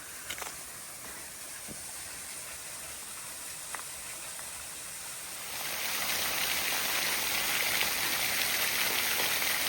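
Small waterfall flowing over icy rocks, a steady rush of falling water that becomes clearly louder about five and a half seconds in.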